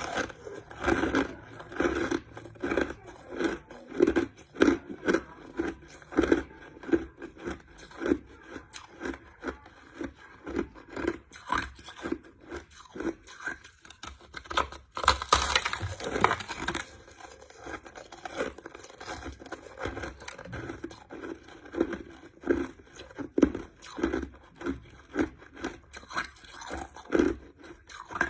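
Crushed ice being chewed, a steady run of crunches about one to two a second, with a louder, denser crunching stretch about halfway through.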